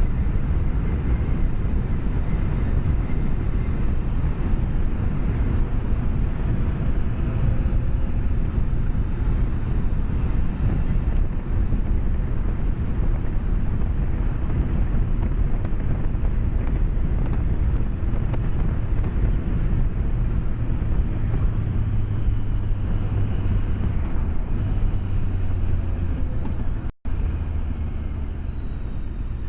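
BMW K1200S inline four-cylinder engine running at a steady cruise under heavy wind and road rumble, heard through a microphone inside the rider's helmet. Near the end the sound cuts out for an instant.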